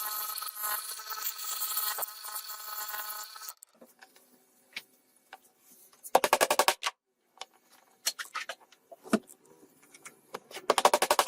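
A power tool running steadily with a whirring, grinding noise, which stops about three and a half seconds in. It is followed by scattered clicks and two short bursts of rapid rattling taps.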